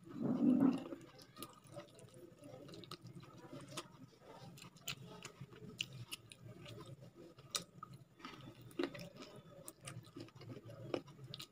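A person chewing chicken curry and rice eaten by hand, with wet mouth clicks and smacks scattered throughout. A brief, louder low sound comes at the very start.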